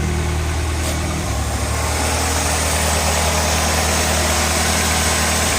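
1986 Ford Ranger's 2.3-litre four-cylinder engine idling steadily, with a hiss rising about a second and a half in. The owner has been chasing misfires and a rough idle, and at this moment he judges it to be misfiring only slightly, if at all.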